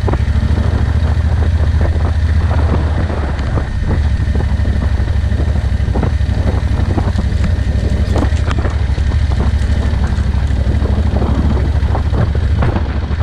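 Vehicle driving along a road: a steady low engine and road rumble with frequent short knocks and rattles.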